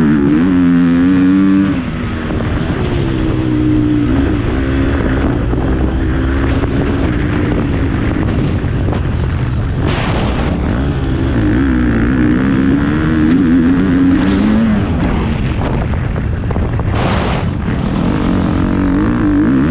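Motocross bike engine running hard, its pitch rising and falling over and over as the throttle is opened and closed. There are two short bursts of noise, about ten and seventeen seconds in.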